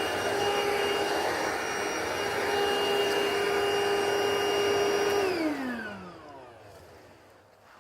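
Vax TBTTV1T1 cordless stick vacuum running with its power head brush switched on: a steady motor whine. About five seconds in it is switched off, and its pitch falls as the motor winds down to a stop.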